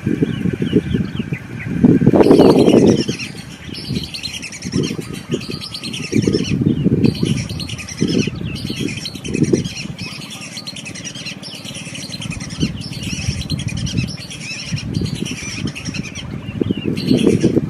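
Many birds chirping and calling over one another in quick, short notes. Bursts of low rumbling run underneath, the loudest about two seconds in.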